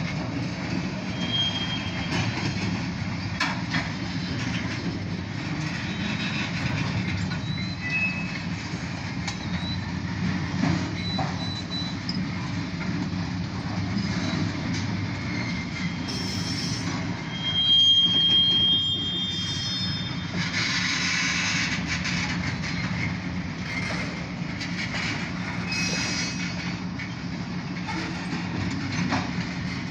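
Covered grain hopper cars of an OC&T freight train rolling past with a steady rumble of wheels on rail. Brief high wheel squeals come now and then, the loudest a little past halfway.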